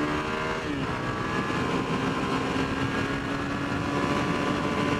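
Suzuki SV650's 645 cc V-twin engine under hard acceleration. The note drops sharply about a second in as the rider shifts up, then pulls on steadily and climbs slowly, with wind buffeting the microphone.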